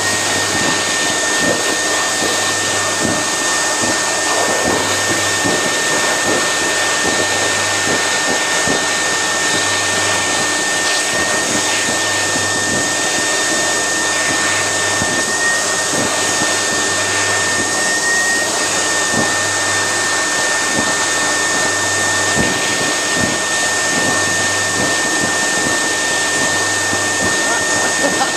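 Build-A-Bear stuffing machine running: a steady, loud blower noise with a thin, constant high tone over it.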